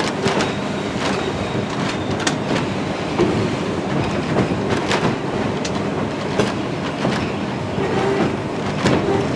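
Passenger train rolling along the track, heard from on board: a steady rumble with wheels clicking over rail joints at uneven intervals.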